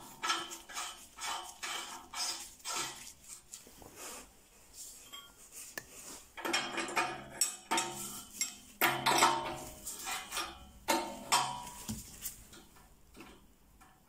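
Irregular metallic clinks and scrapes of hand tools working on a lambda sensor and its spacer adapter as they are screwed into the exhaust pipe.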